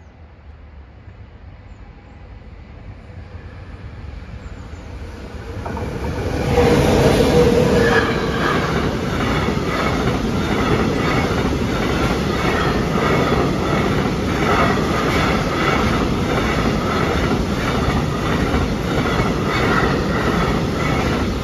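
Freight train of tank wagons passing close by on the track. It grows louder over the first six seconds, is loudest as the locomotive goes by, then settles into a steady rumble with a rhythmic clickety-clack of the wagon wheels.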